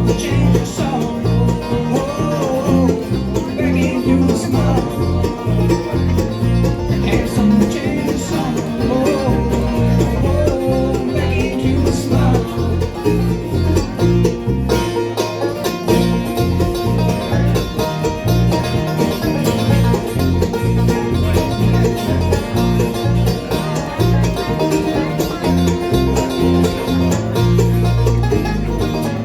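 Live band playing an instrumental break on plucked string instruments over a steady, rhythmic bass line, with no singing.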